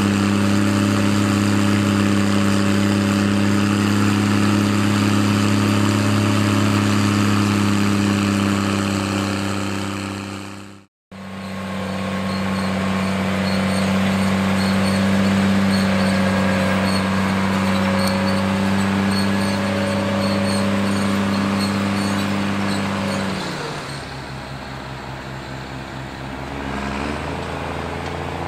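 New Holland T6030 tractor engine running steadily under load through an open straight-through steel exhaust. It cuts out for a moment about 11 seconds in, and about 23 seconds in it drops to a lower, quieter speed, picking up slightly near the end.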